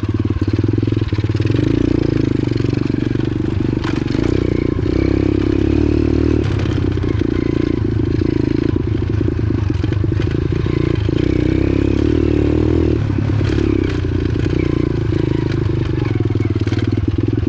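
Single-cylinder four-stroke engine of a 125cc pit bike running under load on a dirt trail, its note swelling and easing with the throttle, with rattles and clatter from the bike and the ground.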